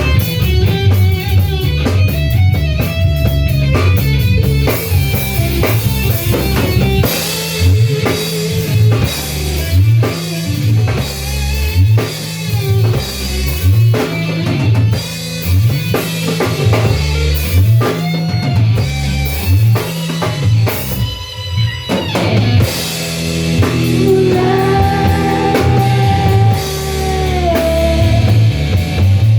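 Rock music played on electric guitar, bass and drum kit, with a held, bending lead guitar line near the end.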